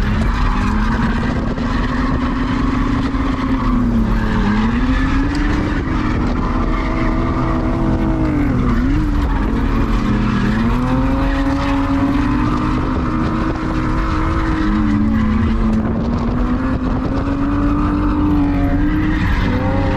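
Drift car's engine pulling hard on track, its revs climbing and dropping back several times, over steady tyre and wind noise.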